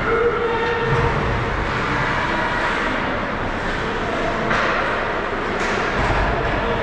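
Ice hockey game sound in an arena: a steady wash of reverberant noise, with a short steady tone in the first second and several sharp knocks in the second half.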